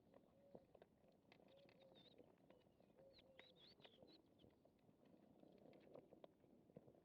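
Very faint: scattered small clicks of cats eating, with faint high chirps of small birds from about one and a half to four and a half seconds in.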